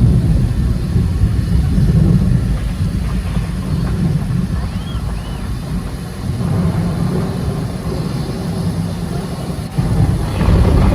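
Concert-arena ambience: a steady low rumble with crowd noise, and a couple of short whistles about five seconds in.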